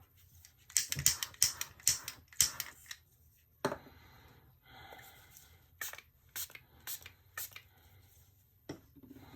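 Quick sharp spritzes from a hand spray bottle of alcohol, misted onto freshly poured resin to pop surface bubbles. They come in a fast run of about seven about a second in, then about four more spaced out later, with a single knock between the runs.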